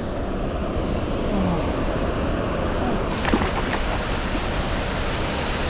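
Steady rushing of water pouring over a creek waterfall.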